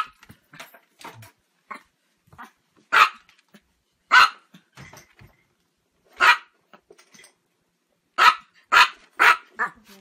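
A small Chihuahua barking in sharp, high-pitched yaps: single barks every second or two, then a quick run of four near the end.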